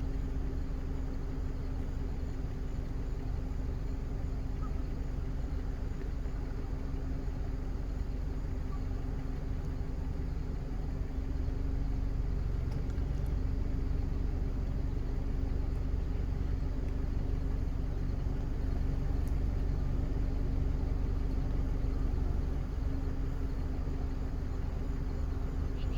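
Steady low rumble with a constant hum, typical of a motor vehicle's engine running.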